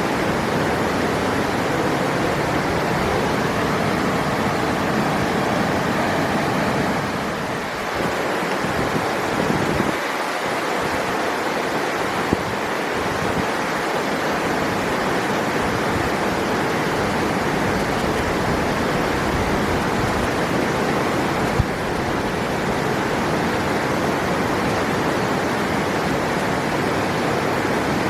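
River water rushing steadily, a full, even noise with no let-up. There is a brief dip about a quarter of the way in and two faint clicks later on.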